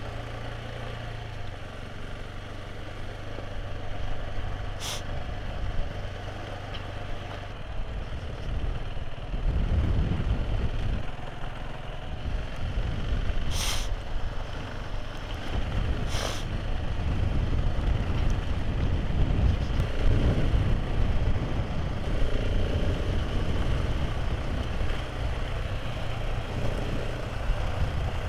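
Motorcycle engine running steadily at first, then a heavy, uneven low rumble from about nine seconds in, typical of wind buffeting the microphone while riding. Three sharp clicks stand out, one early and two close together in the middle.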